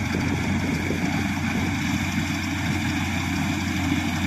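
Engine running steadily at a constant speed: an even, unbroken low drone.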